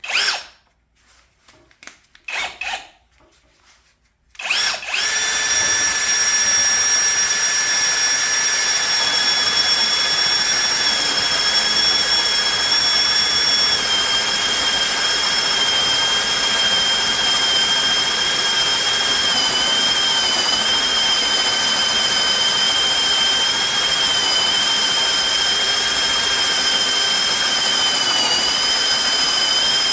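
Brushless cordless drill boring a hole with a 1-1/4-inch bit. It gives a few short trigger bursts, then about four and a half seconds in it runs continuously with a steady high whine, dipping slightly in pitch now and then as the bit takes load.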